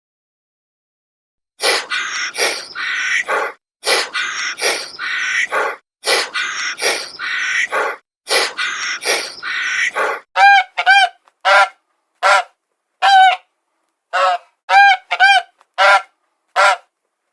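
Animal calls repeated in a series: first harsh, rasping calls in quick succession, then, about ten seconds in, shorter clear honks about one and a half a second.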